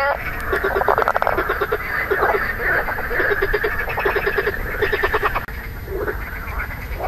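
Marsh frogs croaking, which the uploader tentatively takes for Pelophylax ridibundus: rapid pulsed, rattling calls, several overlapping. About five and a half seconds in they fall away, leaving a couple of short calls.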